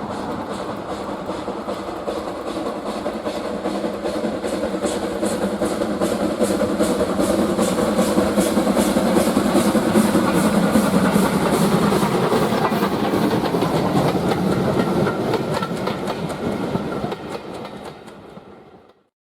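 Steam locomotive hauling a train past, its regular exhaust beats and wheel noise growing louder to a peak about halfway through and then fading. The sound cuts off suddenly near the end.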